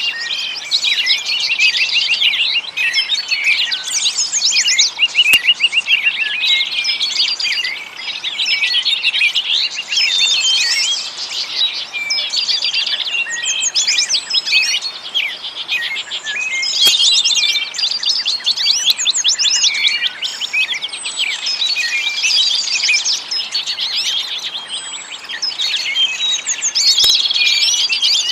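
Many small songbirds chirping and twittering without pause, with fast high trills and rapid repeated notes overlapping one another.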